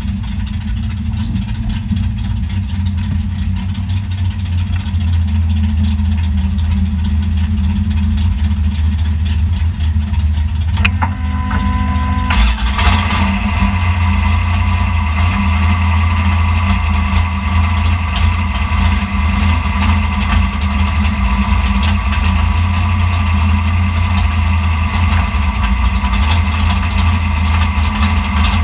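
Dodge Demon drag car's 528 cubic-inch naturally aspirated big-block wedge V8 idling steadily, heard inside the caged cabin. About eleven seconds in there is a click, and from about thirteen seconds a steady high whine joins the idle.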